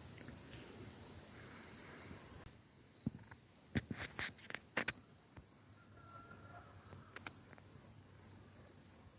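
Crickets chirping in a steady high pulse of about two chirps a second, over a continuous thin trill. A few sharp clicks and knocks come near the middle.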